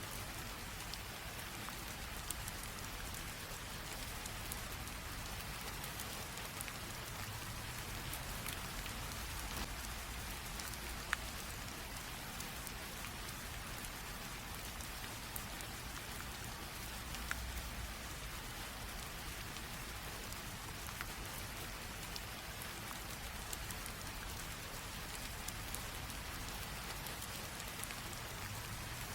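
Light rain drizzle falling steadily on a surface: an even patter of many small drops, with a few single drops ticking a little louder now and then.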